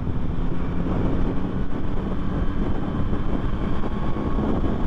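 Wind rushing over the camera microphone together with the steady running of a 2024 Yamaha MT-09's inline three-cylinder engine while the motorcycle cruises.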